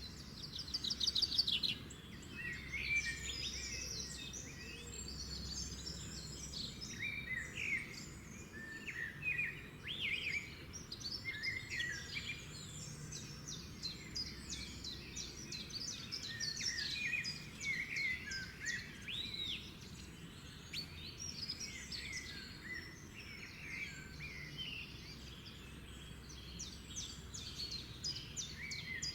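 A chorus of several songbirds chirping and trilling over one another without pause, over a steady low background hiss of outdoor ambience.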